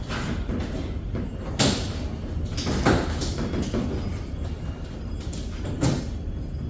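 Snap fasteners on a soft truck-bed topper being pressed onto their rings: a series of sharp clicks and knocks, three of them standing out.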